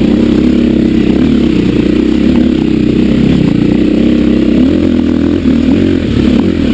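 Dirt bike engine running under load at low speed, its pitch rising and falling as the throttle is worked over rough ground, with light clatter over it.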